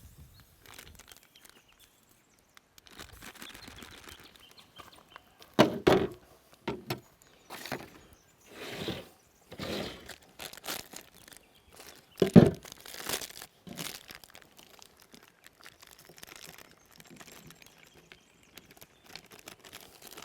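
Cooking pots, utensils and a plate handled while dinner is served up: irregular scraping, rustling and clinking, with two loud knocks about six and twelve seconds in.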